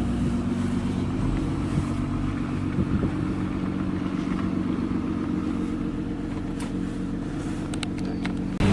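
Car engine running steadily with a low hum, easing off slightly as the car pulls over. A few light clicks come near the end, and the sound suddenly gets louder just before the end.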